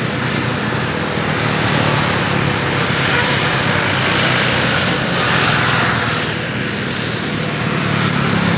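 Jet airliner's engines passing by: a steady rush of engine noise that swells in the middle and eases off near the end.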